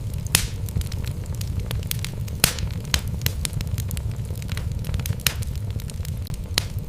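Wood logs burning in a fireplace: a steady low rumble of flame with irregular crackles and sharp pops. The loudest pops come about half a second in and about two and a half seconds in.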